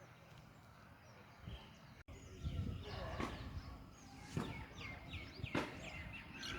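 Small birds chirping in short, repeated falling notes, over a low outdoor rumble with a few sharp knocks; the sound drops out briefly about two seconds in, and the chirping picks up after that.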